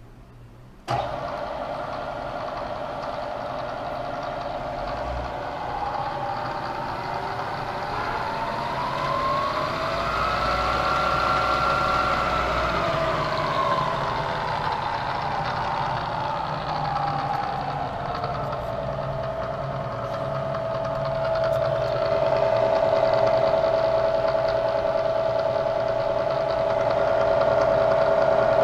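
Bridgeport EZ-TRAK DX II vertical mill's spindle starting abruptly about a second in and running with a steady mechanical whine. In the middle the whine glides up in pitch, holds, then glides back down, before settling on a steady tone that grows slightly louder near the end.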